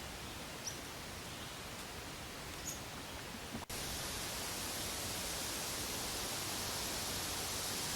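Steady outdoor background hiss with two faint, short high chirps in the first few seconds. After a brief dropout about three and a half seconds in, a slightly louder, brighter hiss.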